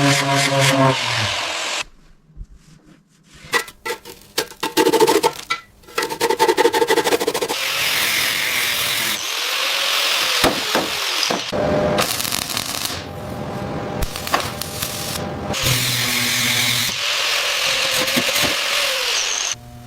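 Workshop power tools running in a string of short, abruptly cut clips, some with a steady whine and some with a harsh hiss, with scattered sharp knocks; there is a brief quiet gap about two seconds in.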